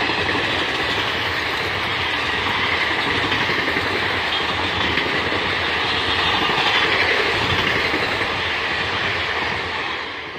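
Passenger coaches of an express train rolling past on the rails, a steady rumble of wheels on track that fades in the last second as the end of the train goes by.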